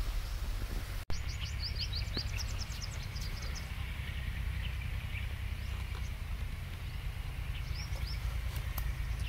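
Small birds chirping in quick runs of short, high, falling notes about a second in and again near the end, over a steady low rumble.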